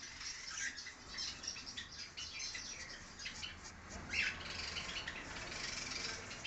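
Budgerigars and cockatiels in an aviary chirping and chattering together in a dense mix of short calls, with one louder squawk about four seconds in.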